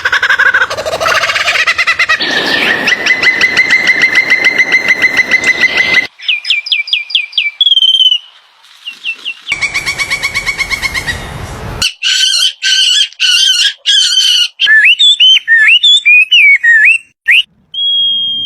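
Birds calling, with several different calls cut one after another: a fast trill, sharp repeated chirps, a second trill, then a run of whistled calls rising and falling in pitch, ending on a held whistle.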